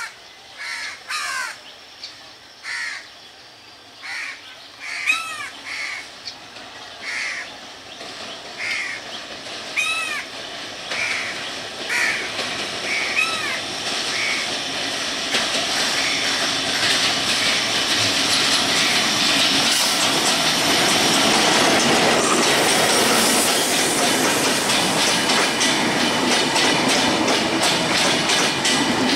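Birds call repeatedly, about once a second, over a quiet background. From about halfway a diesel-hauled passenger train approaches and its coaches run past, with wheel and rail noise rising to a steady loud rumble and clatter.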